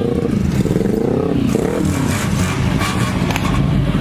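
Car engine revving hard, its pitch climbing and dropping about once a second.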